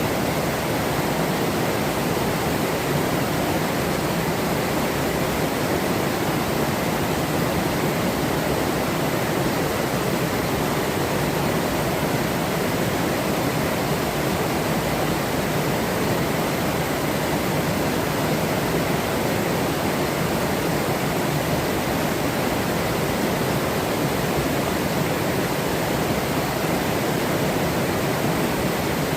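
Forest river flowing over rocks: a steady, even rush of running water with no change.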